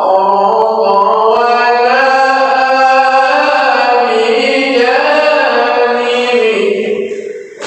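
Melodic Quran recitation by a male qari, his voice holding long notes that slide slowly up and down in pitch, the phrase fading out near the end.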